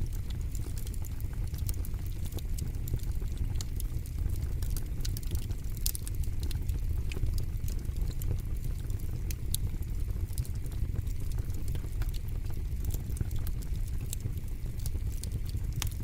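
Wood fire burning in a fire pit, crackling with many irregular sharp pops and snaps over a steady low rumble.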